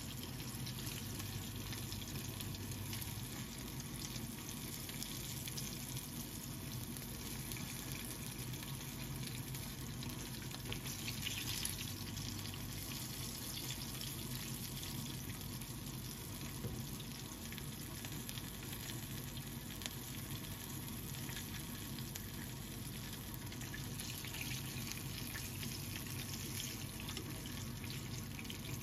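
Chicken drumsticks shallow-frying in oil in a frying pan: a steady sizzle and crackle of the oil, flaring up a little briefly a third of the way in and again near the end.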